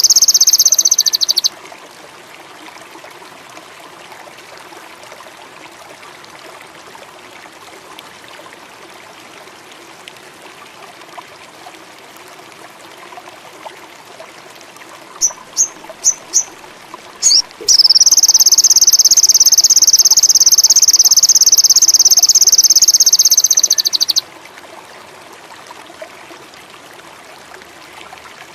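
A loud, high, buzzing trill that stops about a second and a half in, returns as a few short chirps past the middle, then runs for about six seconds before cutting off, over the steady hiss of running water.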